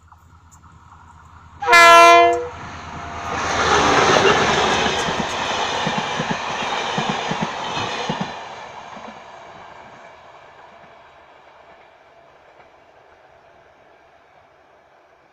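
A single short, loud horn blast, then a heavy vehicle passing with a rhythmic clatter that swells and fades away over several seconds.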